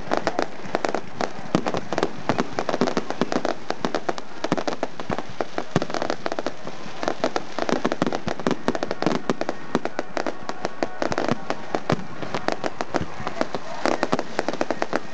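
Aerial fireworks going off in a dense barrage: an unbroken run of bangs and crackles from bursting shells, many reports every second.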